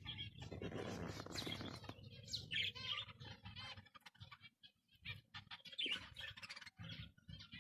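Zebra finches calling in short, repeated chirps, with rustling in the first two seconds.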